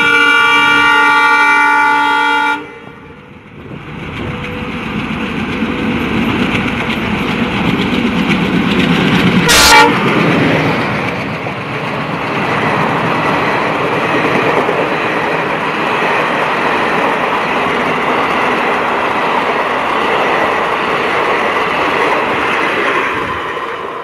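An Indian Railways locomotive horn sounds one loud, steady chord for about two and a half seconds. Then an express train passes at speed: the rush and clatter of its coaches swells and holds steady, with one sharp bang near the middle.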